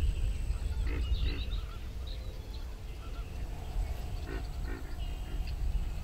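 Birds calling: two short calls about a second in and two more about four and a half seconds in, with higher chirps from small birds in between.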